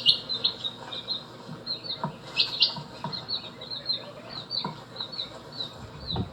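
A small bird chirping rapidly: a steady run of short, high chirps, several a second, most sliding slightly downward, with a few faint low knocks underneath.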